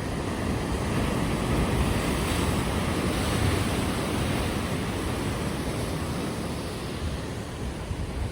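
Ocean surf breaking and washing onto the shore: a steady rush that swells about a second in and eases off over the following few seconds.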